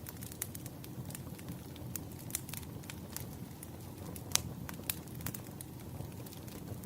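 Firewood burning, with irregular crackles and small pops over a low steady rumble; one sharper pop a little past four seconds in.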